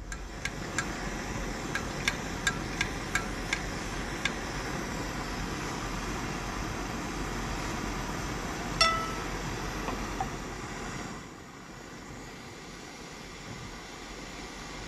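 A run of light metallic clinks, then one louder ringing clink, over a steady hiss.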